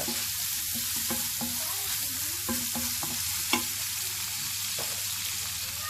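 Chicken pieces frying in olive oil and soy sauce in a pan: a steady sizzle, with a few light clicks from stirring.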